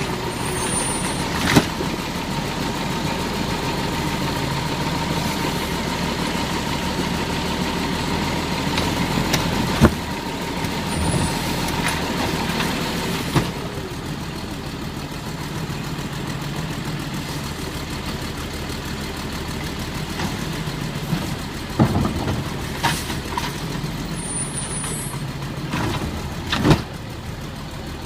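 Garbage truck engine running steadily, with sharp clanks and bangs every few seconds as it works. A steady tone sounds over the engine for the first half.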